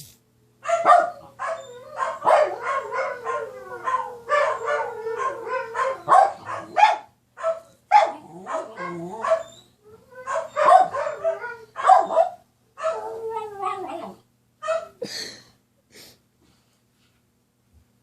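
Dog vocalizing in a long run of short barks, yips and whines, the pitch of the calls bending up and down, stopping about two seconds before the end.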